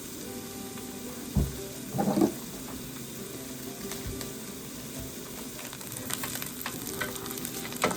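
Onions frying in a pot with a steady sizzle. A single knock comes about a second and a half in, and light crackling picks up near the end.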